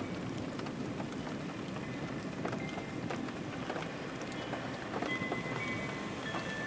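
Steady rain falling, with many small drop ticks in an even hiss. Faint high ringing tones like chimes come in near the end.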